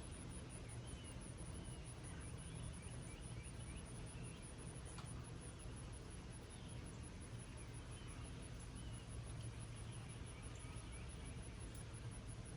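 Gentle rain falling as a soft, steady hiss with an occasional drop tick, under a low steady hum. An insect keeps up a rapid, very high-pitched pulsing trill throughout, and birds chirp faintly now and then.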